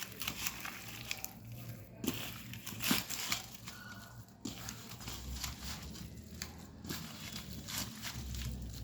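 Hands mixing and rubbing raw chicken pieces in a wet spice marinade: soft squelching with scattered irregular clicks as the pieces knock together.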